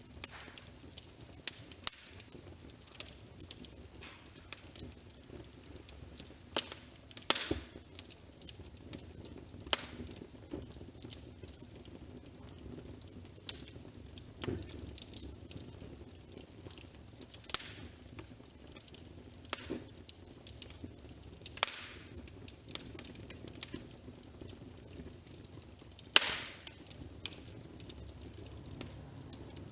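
Fireplace crackling: irregular sharp pops and snaps over a low steady hiss, with one louder pop near the end.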